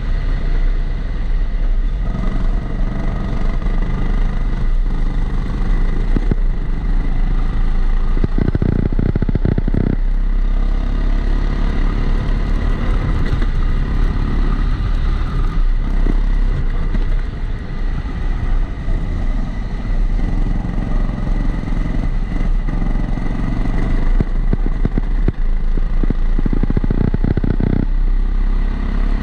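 Kombikart Eco kart engine running on track, heard from onboard, with a steady high whine throughout. Two short rattles come about nine seconds in and again near the end. The uploader puts the recurring extra noise down to the GoPro being in a housing.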